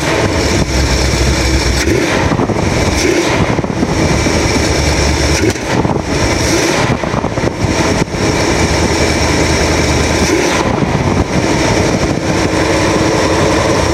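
The 318 V8 of a 1973 Dodge Sportsman motorhome running smoothly just after a cold start, a steady loud engine sound with a low rumble that swells and eases every couple of seconds.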